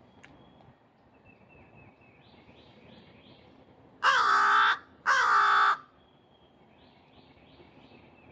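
A crow caws loudly twice in quick succession, about four seconds in, each call harsh and falling slightly in pitch. Faint repeated chirping of a smaller bird sounds before and after the caws.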